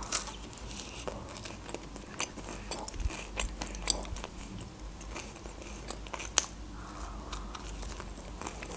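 A bite into a slice of pizza, then a mouthful of pizza being chewed, with scattered small crunchy clicks from the crust.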